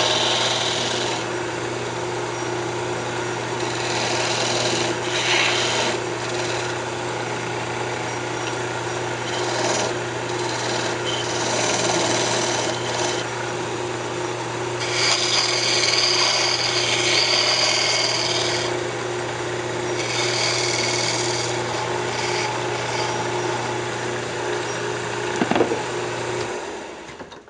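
Wood lathe running with a steady hum while a turning tool cuts a tenon on a spinning maple box blank; the hiss of the cut comes and goes in several passes. Near the end the lathe's hum stops.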